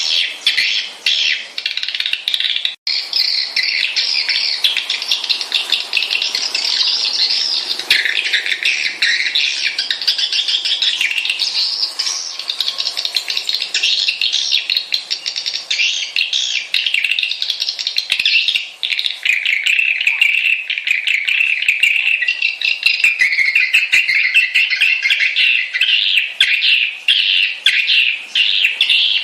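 Swiftlet lure call: many swiftlets twittering and chirping rapidly and without pause, high-pitched, with a momentary break about three seconds in.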